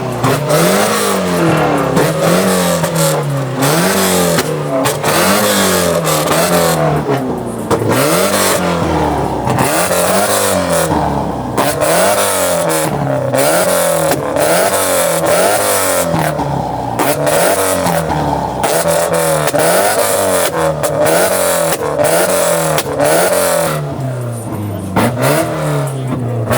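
A car engine revved over and over, its pitch rising and falling about once a second, with crowd chatter around it.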